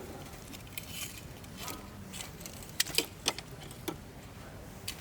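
Campfire of burning wood crackling, with a few sharp pops and snaps clustered about three seconds in.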